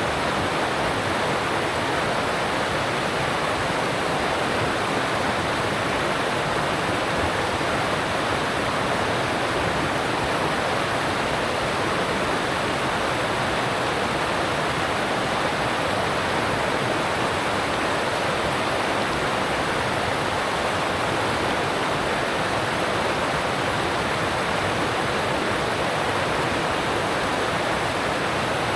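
Alpine stream water rushing over rocks, a steady, even rush with no change.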